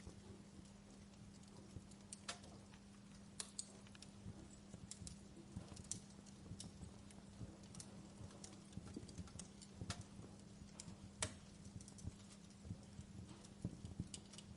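Wood fire crackling softly, with irregular small pops and snaps and a few sharper cracks, over a faint steady low hum.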